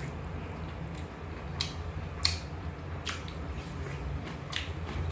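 Close-up eating sounds: a handful of sharp, wet clicks from chewing and lip smacks, spaced irregularly.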